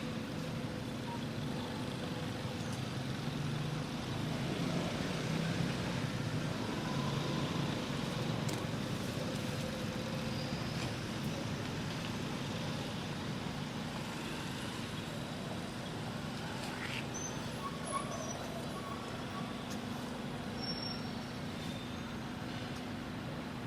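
Steady background rumble with a faint low hum, with a few faint clicks now and then.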